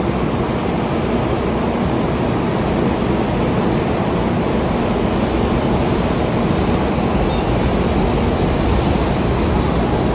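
Taiwan High Speed Rail train pulling into the station: a loud, steady rushing noise of the train running along the platform, with no horn, brakes or announcements standing out.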